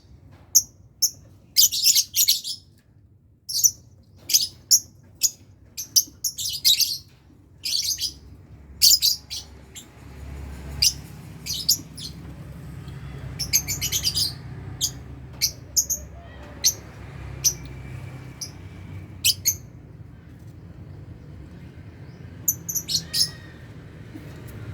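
Lovebirds giving short, sharp, high-pitched chirps, many in quick succession at first and more scattered after about ten seconds. A low hum sets in about ten seconds in.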